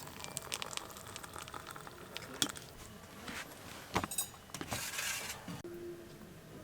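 Light clinking and clatter of cookware and utensils being handled, with two sharper knocks about two and a half and four seconds in and a brief rushing hiss around five seconds.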